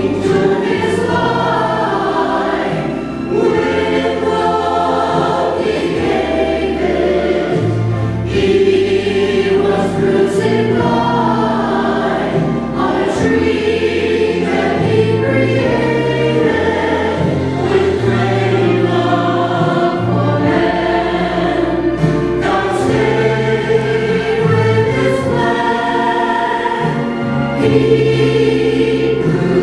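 Church choir singing a hymn or anthem in parts, over accompaniment that holds low bass notes changing in steps.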